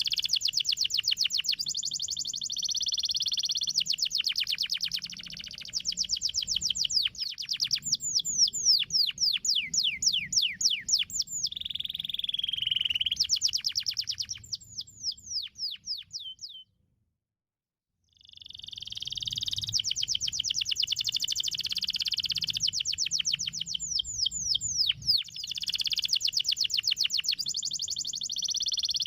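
Domestic canary singing in long rapid trills of repeated downward-sweeping notes, alternating with buzzy rolls. The song breaks off abruptly into silence for about a second and a half just past the middle, then picks up again.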